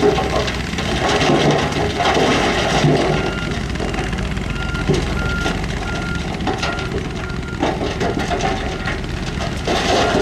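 Diesel engine of heavy earthmoving equipment running under load. A reversing alarm beeps in an even rhythm, a little under two beeps a second, from about three seconds in to past the middle.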